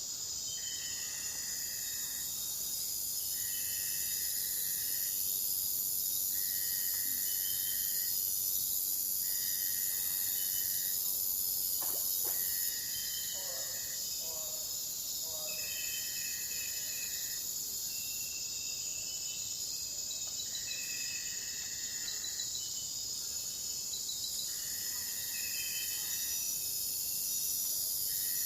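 Insects chirping in a garden: a steady high-pitched buzz, with a call about a second long repeating roughly every two seconds. A few fainter short bird calls come in around the middle.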